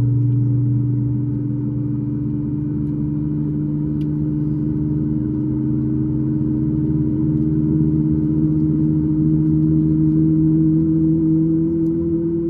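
Cabin noise of a Boeing 737 MAX 8's CFM LEAP-1B turbofan engines, heard from a seat just behind the wing: a loud, steady low drone whose pitch climbs slowly throughout.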